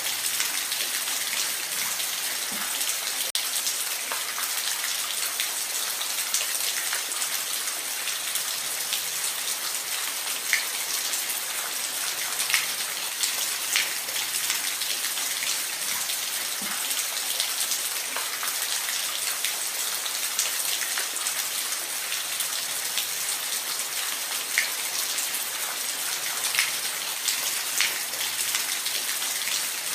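Steady rain falling, a constant hiss with scattered individual drops ticking sharply against a surface.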